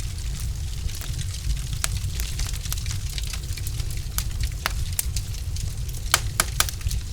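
Log fire in a fireplace crackling: a steady low rumble of the burning with frequent sharp pops and snaps, and three louder pops in quick succession near the end.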